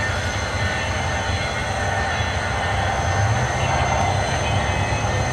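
Two cars' engines idling at a drag strip starting line, a steady low rumble.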